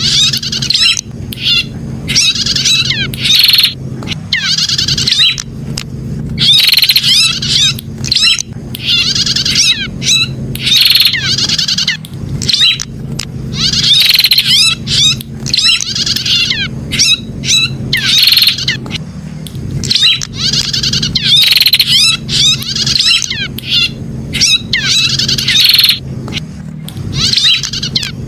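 Prinia (prenjak) singing: loud bursts of rapid, warbling chirps repeated every second or two with short pauses between phrases, over a steady low hum.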